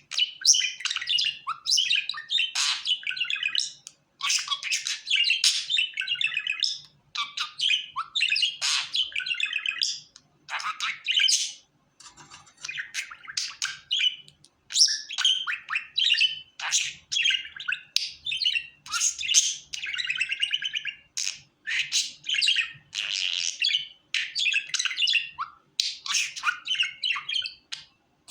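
Budgerigar warbling and chattering: rapid bursts of chirps and squawks with short pauses.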